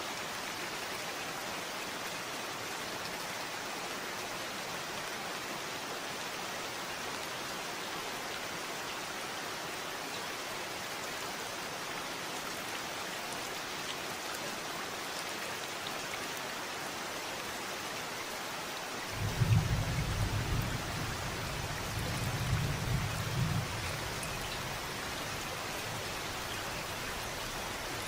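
Steady rain hissing and pattering. About two-thirds of the way through, a loud low rumble of thunder rolls in and swells and fades over several seconds.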